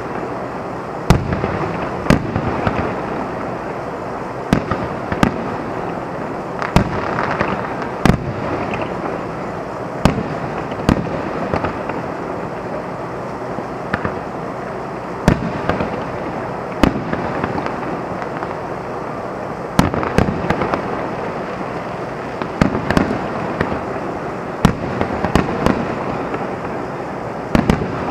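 Aerial fireworks shells bursting in a long series of sharp bangs, one every second or two and sometimes several close together, with crackle between them over a steady background hiss.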